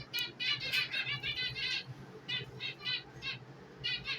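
Small pet parrots chirping in rapid runs of short high calls, with a brief lull a little past the middle.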